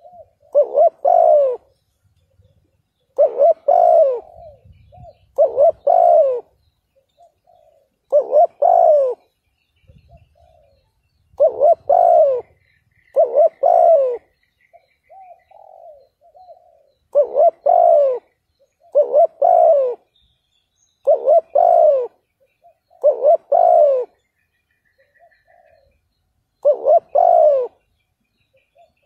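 Spotted dove cooing: loud coos in pairs, repeated about every two seconds, with softer short notes between them.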